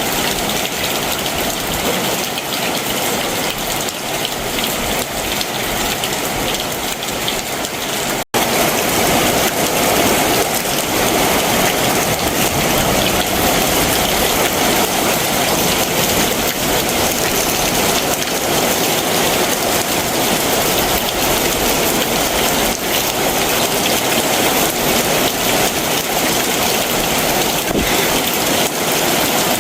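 Heavy summer monsoon rain shower falling steadily. A split-second dropout comes about eight seconds in; after it the rain is louder and fuller.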